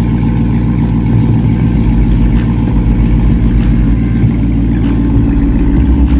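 2009 Dodge Charger SRT8's 6.1-litre Hemi V8 running steadily, with a deep exhaust note.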